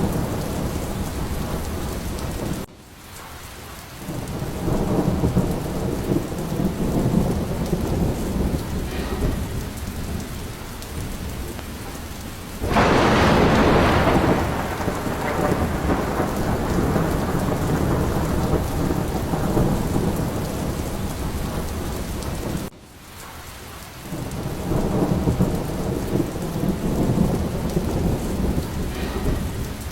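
Thunderstorm: steady rain with low rolling thunder rumbles. About halfway through, a sudden loud thunderclap rumbles away over a few seconds. The sound drops off abruptly twice, about three seconds in and again about twenty-three seconds in.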